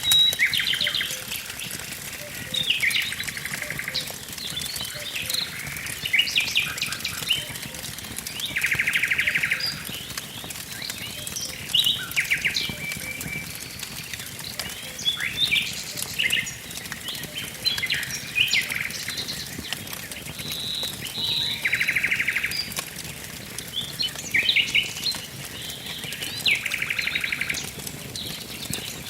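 Songbirds singing short repeated phrases and chirps, with a rapid buzzy trill about a second long every several seconds, over the scattered crackle and pops of a burning wood fire.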